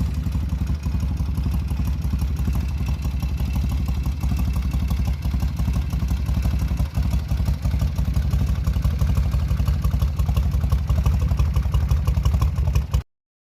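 1974 Norton 850 Commando's air-cooled parallel-twin engine running steadily after a cold start, with a deep, even beat of firing pulses.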